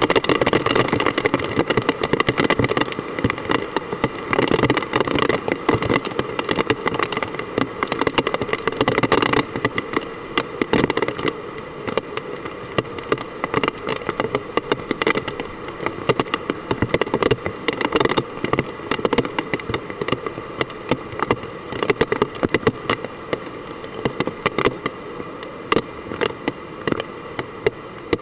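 Hard typhoon rain coming down, a dense crackle of drops hitting hard surfaces, a little heavier in the first ten seconds or so.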